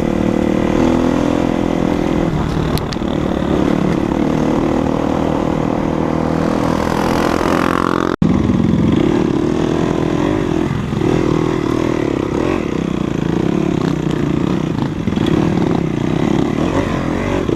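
Off-road motorcycle engine running under way, its pitch rising and falling with the throttle. The sound cuts out for an instant about eight seconds in.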